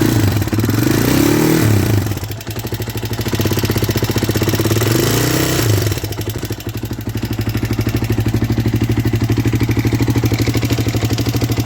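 Husqvarna SM610 single-cylinder four-stroke engine running. It is revved up and back down twice, about a second in and again around five seconds, then settles into a steady, evenly pulsing idle. The engine has a knock that the seller says rumbles now and then.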